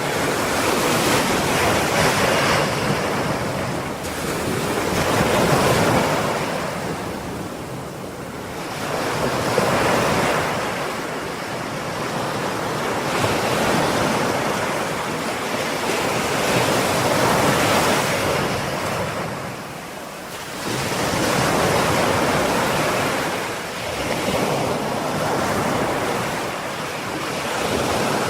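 Ocean waves breaking and washing on the shore, a steady surf noise that swells and ebbs every few seconds.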